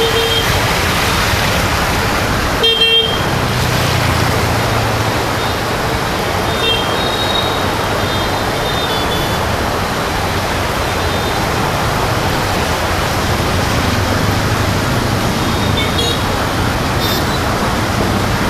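Steady rain and road traffic noise, with a vehicle horn giving a short double toot about three seconds in.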